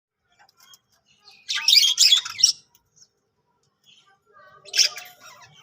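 Pet budgerigars chirping and chattering, with a dense burst of twittering about a second and a half in and another near the end, and fainter scattered chirps between.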